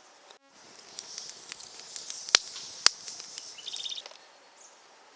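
Hands rustling and working the parts of a homemade gas burner attachment, with two sharp clicks about half a second apart in the middle and a brief high chirp near the end.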